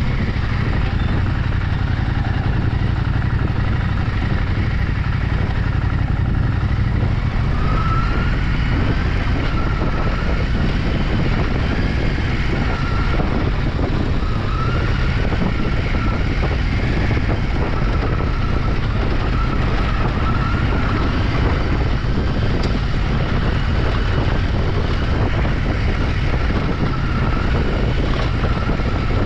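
Vehicle travelling off road: a steady engine and road rumble with no let-up, heavy in the low end.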